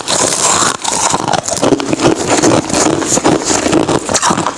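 Ice being chewed close to the microphone: a dense, irregular run of loud crunches.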